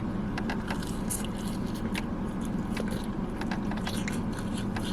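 A person chewing a big mouthful of fast-food fries close to the microphone, with many small irregular mouth clicks. A steady low hum runs underneath.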